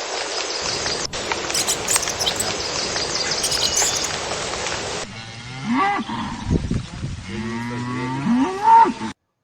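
Cattle mooing: several low calls that rise and fall in pitch, starting about halfway through. Before the mooing there is a steady hiss with faint high chirps.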